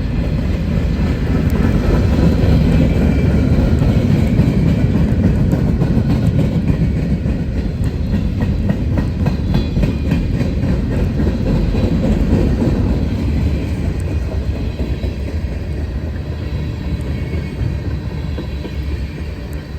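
Train rolling past, a steady rumble of cars with faint wheel clicks over the rails, loudest through the first half and slowly fading toward the end.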